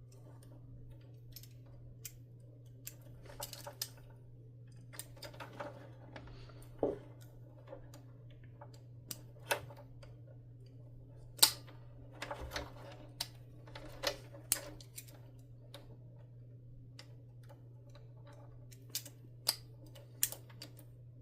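Scattered sharp clicks and short rustles of hands working the plastic wire connectors and wiring of a canister vacuum, over a steady low hum.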